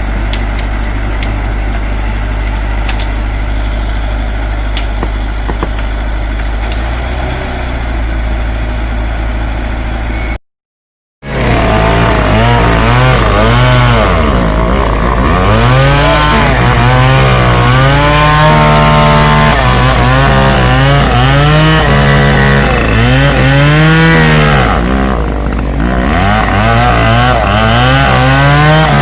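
A heavy machine's engine runs steadily. After a short break about ten seconds in, a chainsaw takes over, revving up and down over and over as it cuts wood.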